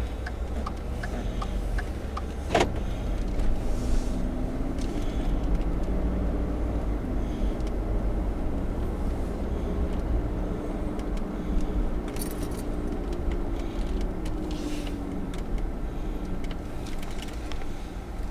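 Car running and driving slowly, heard from inside the cabin: a steady low engine and road rumble. Light ticking in the first two seconds and one sharp click about two and a half seconds in.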